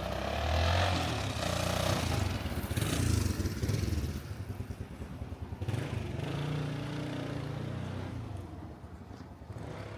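A motor vehicle's engine passing close by, loudest in the first few seconds, with a second, weaker swell later before it fades.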